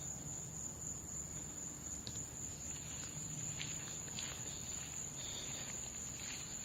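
Crickets trilling in one steady, high-pitched chorus, with a few faint rustles and ticks here and there.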